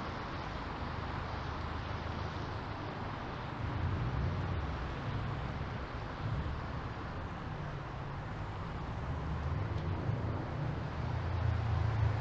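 City street traffic: cars passing with a steady low rumble of engines and tyres, swelling about four seconds in and again near the end.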